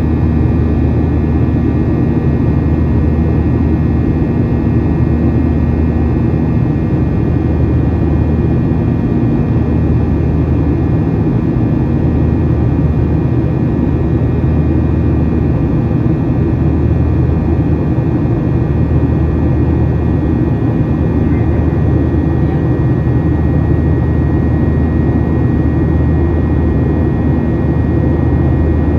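Steady cabin noise of a Boeing 737-800 in its climb after takeoff: CFM56-7B jet engines and airflow, a loud unbroken drone with a low hum and a faint high steady tone.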